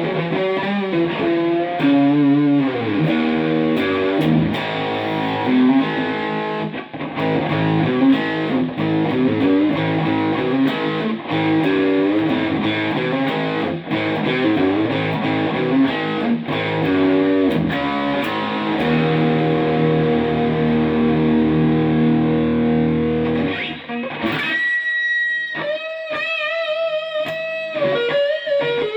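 Electric guitar played through an amplifier with some distortion: chordal riffing for most of the stretch, then, near the end, single sustained lead notes with vibrato and string bends.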